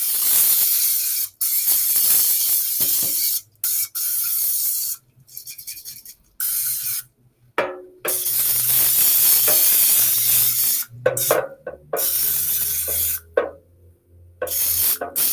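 Aerosol can of non-stick cooking oil spray hissing in a series of long bursts with short pauses between them, coating an air fryer basket.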